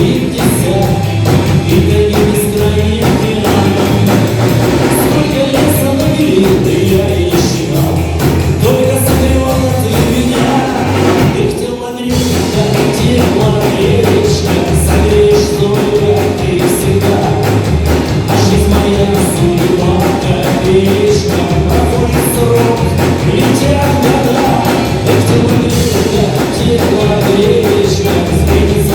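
Rock band playing live, with drums and bass driving a steady beat; the music drops out briefly about twelve seconds in, then carries on.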